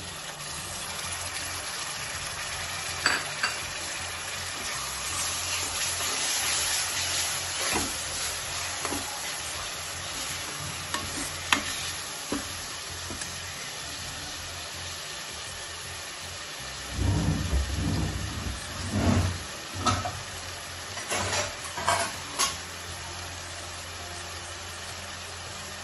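Grated tomatoes and green chillies sizzling in hot oil with fried onions in a steel kadai as a steel ladle stirs them, scraping against the pan. About two-thirds of the way through comes a run of louder ladle knocks and scrapes.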